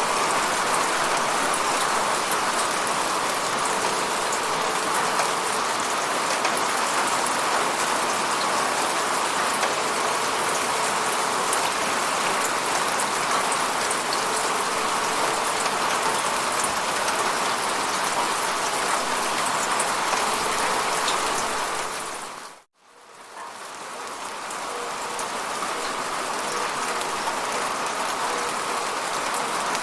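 Steady falling rain, a dense even patter. About three-quarters of the way through it fades out abruptly to near silence for a moment, then swells back up over a couple of seconds, like the seam of a looped recording.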